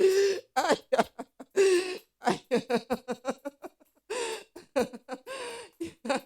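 A voice speaking in tongues: quick, rhythmic strings of syllables with no recognisable words, starting abruptly after a pause.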